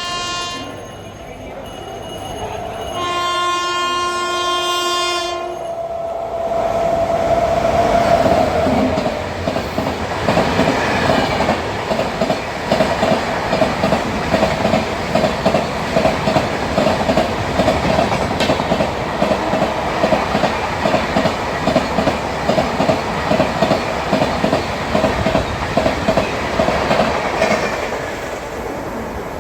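Locomotive horn sounding twice, the second blast about two seconds long, then an express train passing at speed, its wheels clattering over the rail joints in a steady rhythm that fades near the end.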